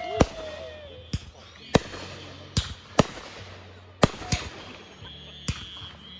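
Firecrackers going off: a string of sharp bangs at uneven intervals, about ten in six seconds.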